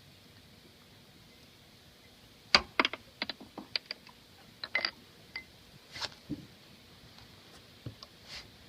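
A run of sharp clicks and knocks, about a dozen close together from two and a half seconds in, then a few fainter ones near the end, with no engine running.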